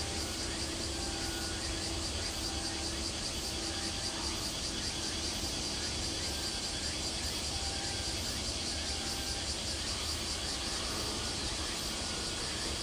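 Steady outdoor background sound: a constant low hum and hiss with a high, insect-like buzz over it.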